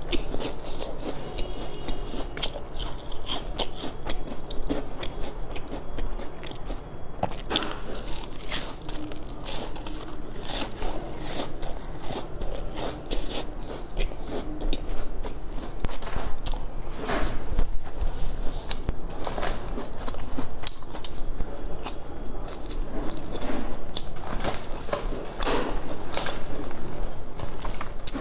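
Close-miked chewing of a bitten, glazed round pastry with a sesame-seed crust: repeated crunching and crackling clicks that come unevenly, in clusters.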